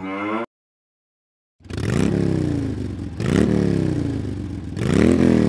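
Engine revving three times, each rev climbing quickly in pitch and sinking back. It starts and stops abruptly, like an edited-in sound effect.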